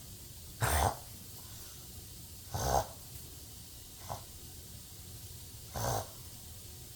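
Dog reverse sneezing: sharp snorting pulls of air in through the nose, three clear ones about two seconds apart with a fainter one between the last two.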